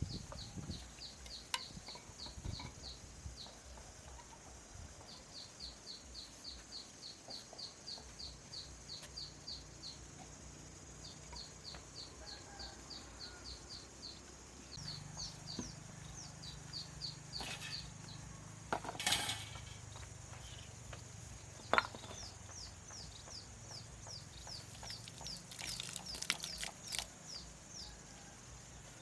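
A bird chirping in long runs of short, high, falling calls, about three to four a second, with a few sharp knocks in the second half.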